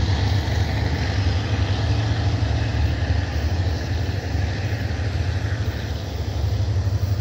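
Diesel-hauled passenger express train pulling out and moving away, a steady low rumble of its wheels on the rails and its locomotive.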